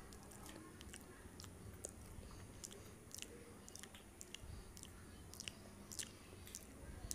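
Faint close-miked chewing of soft, spongy khaman dhokla, with small wet mouth clicks and smacks scattered irregularly throughout.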